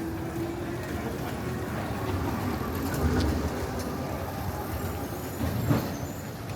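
A motor vehicle passing by on a city street, with a low rumble that swells about three seconds in and a short knock near the end.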